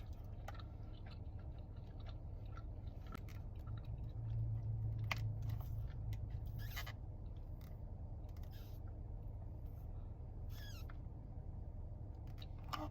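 A person chewing a chicken pesto flatbread close to the microphone, with scattered soft mouth clicks and small crunches, over a steady low hum.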